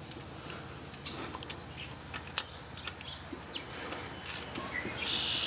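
Scattered sharp metallic clicks and clinks from a hand socket wrench working 8mm bolts loose on a Mazdaspeed 6 engine, with one loud click about halfway through.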